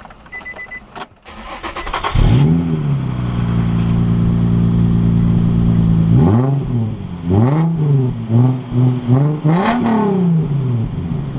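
A few clicks and a short beep, then a car engine starts about two seconds in and idles, loud because the muffler has cracked off one of the exhaust pipes. From about six seconds in it is revved a few times, each rev rising and falling back to idle.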